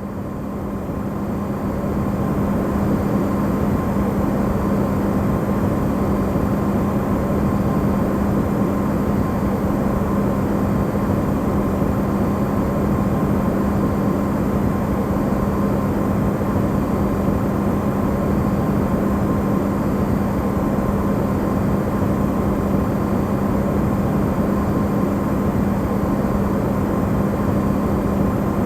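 Amplified Electrolux refrigerator running: a steady hum with a low tone under a noise haze, fading in over the first couple of seconds and then holding even.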